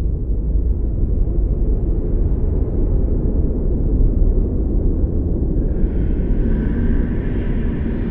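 Strong blizzard wind, a loud, deep, steady rumble. About six seconds in, a higher hissing gust joins it.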